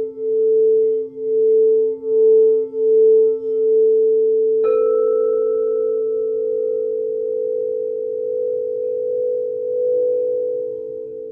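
Singing bowls ringing in long sustained tones, the main tone pulsing in a slow, even wobble. Just before halfway a bowl is struck, adding a higher ringing tone that fades over a couple of seconds. A lower tone joins near the end.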